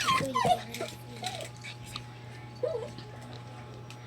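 A dog crying in high whines and wails: a loud burst of falling cries at the start, then softer whimpers about a second in and again near three seconds in.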